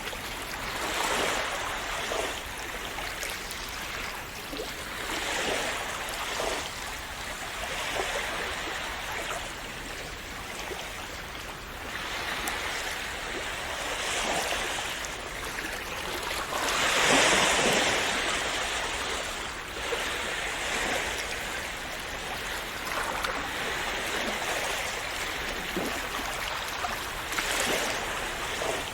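Small sea waves washing and splashing against the shore, a continuous wash with swells every few seconds and one larger wave breaking about two-thirds of the way through.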